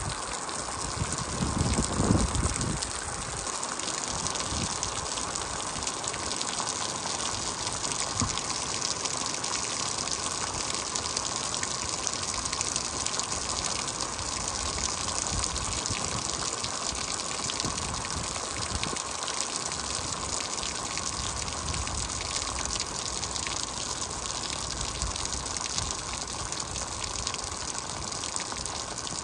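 Heavy rain falling steadily, with a constant rush of gushing water, and a brief louder low rumble about two seconds in.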